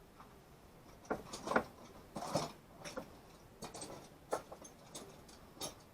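Wire strippers working a wire end: a string of irregular sharp clicks and short snips and scrapes, a few to a second.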